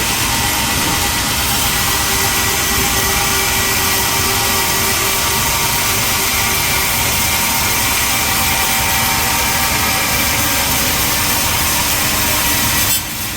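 Sawmill machinery running loud and steady, with a high hissing whine over a steady drone. It drops off suddenly near the end.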